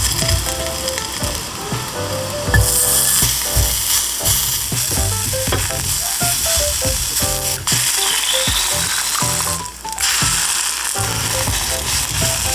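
Sliced garlic sizzling in hot oil in a frying pan, stirred with wooden chopsticks that click against the pan. The sizzle gets louder about two and a half seconds in.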